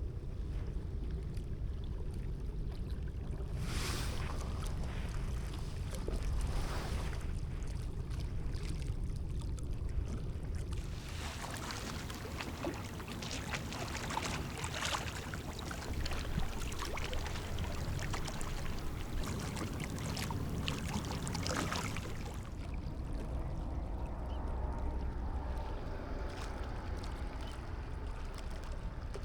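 Steady low rumble of wind on the microphone, with swells of rushing, crackly noise: one about four seconds in, another around seven seconds, and a longer one through the middle.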